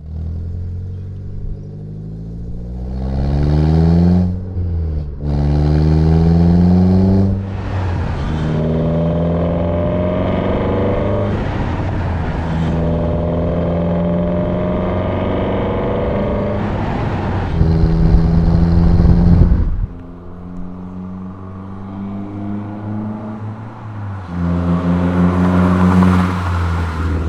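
Renault Sandero RS's 2.0-litre four-cylinder engine with a cold air intake, heard at its intake and exhaust, accelerating gently up through two gears with upshifts, then cruising at steady revs. About 20 s in the throttle is lifted and the engine runs quieter, then it pulls again near the end.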